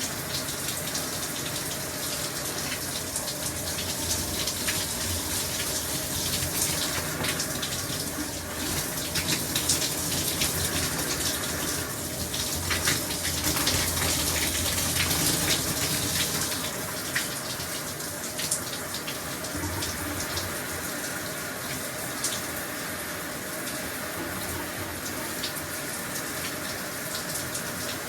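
Shower running steadily, water spraying and splashing, with a low hum under it; the spray grows louder with scattered drips and splashes for several seconds around the middle, then settles.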